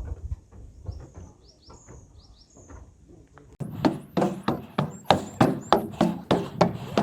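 Footsteps on a hard surface, about three steps a second, beginning about three and a half seconds in, with a small bird chirping several times at a high pitch.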